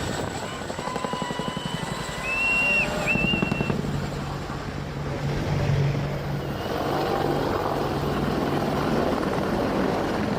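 Military helicopter rotor beating rapidly over running turbine engines. A few thin whistling tones come in the first few seconds, and a steady low hum joins from about three seconds in.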